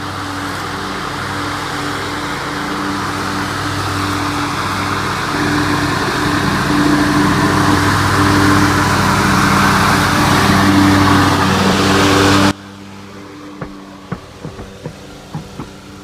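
Riding lawn mower engine running steadily under cutting load with the blade whir, growing gradually louder as it comes closer, then cut off abruptly about three-quarters of the way through; a few faint clicks follow.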